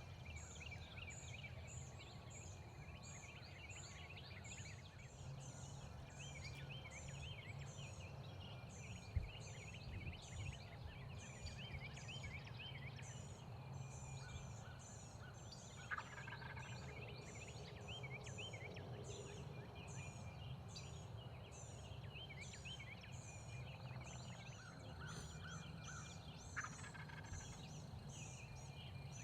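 Wild turkey gobbling in the distance, faint, over a steady run of high chirps repeating about twice a second, with a few sharp clicks.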